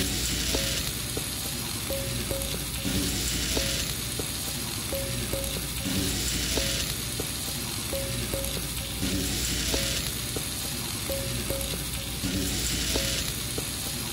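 Pork belly kimchi fried rice sizzling on a hot iron griddle plate while a metal spatula stirs and scrapes it, with scattered light clicks of the spatula on the plate.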